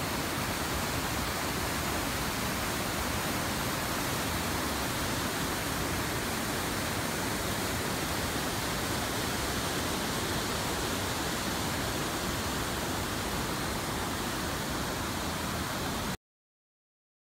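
A steady, even rushing noise with no pitched tone in it, cutting off abruptly near the end.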